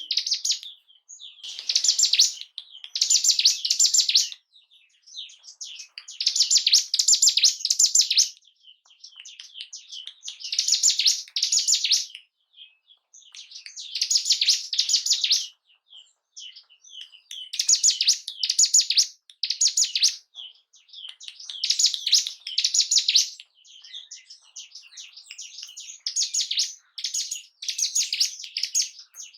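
Ciblek gunung songbird singing in repeated fast, high, chattering phrases, each a second or two long with short pauses between them. This is a lure recording used to provoke a caged bird into singing.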